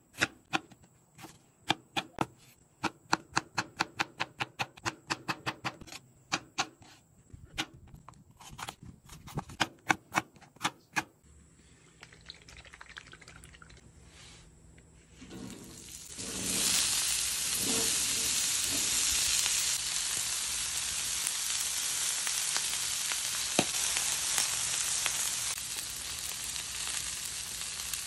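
Quick knife chopping on a wooden cutting board, about three or four strokes a second, for the first ten seconds or so. After a quieter stretch with a low steady hum, cut okra hits the oiled flat-top griddle about sixteen seconds in and sizzles loudly and steadily.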